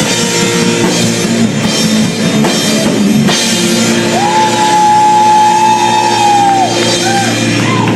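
A rock band playing live: drum kit, guitar and shouted singing. In the middle, a single high note is held steady for about two and a half seconds.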